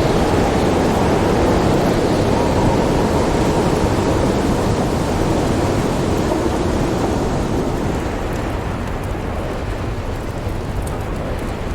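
Howling snowstorm wind as a steady, dense rush with a deep low rumble beneath, easing slightly in the last few seconds. A few faint crackles from the fire come through near the end.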